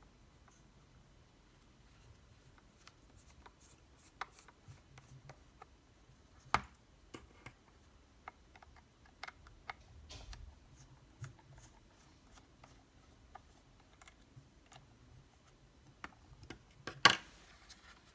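Scattered small clicks and taps of a screwdriver and a plastic charger case being handled while screws are taken out, with a sharp click near the end.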